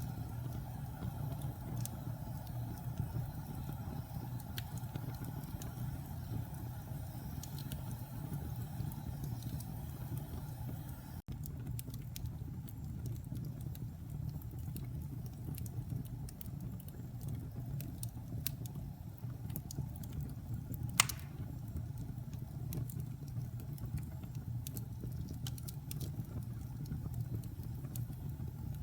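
Wood fire crackling in a fireplace: scattered small pops and ticks over a steady low rumble, with one sharp, loud pop about two-thirds of the way through.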